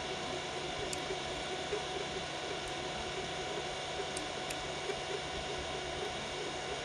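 Biqu BX 3D printer printing at 120 mm/s: a steady whir of cooling fans with the steady whine of its stepper motors, and a few faint ticks.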